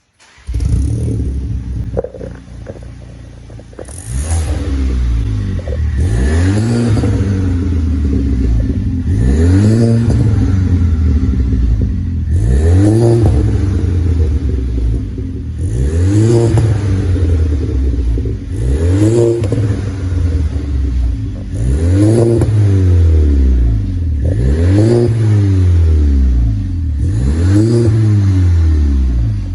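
Audi A3 2.0T turbocharged four-cylinder through a full aftermarket exhaust with Sirrush performance mufflers. It comes in abruptly with a flare about half a second in and settles to idle, then from about four seconds is revved about nine times, each rev rising and falling back to idle every three seconds or so.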